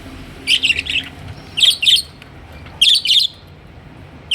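Budgerigar chirping: short bursts of quick high chirps, about one burst a second, with a fourth starting near the end.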